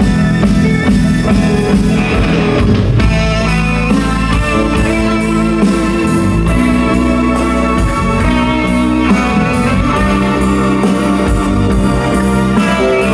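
Live band playing minimalist music: sustained electric guitar and organ tones over a steady pulse of repeated notes.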